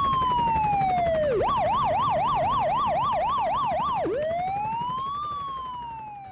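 Police siren sounding: a slow wail falls, switches about a second and a half in to a fast yelp of roughly four cycles a second, then returns to a slow rise and fall that fades out near the end.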